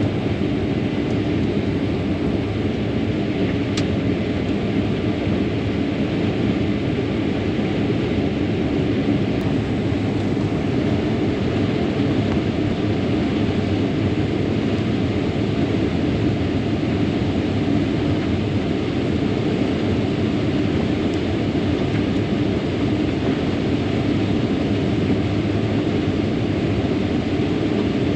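Combine harvester running steadily while cutting corn: a constant low drone of engine and threshing machinery with an even hiss over it.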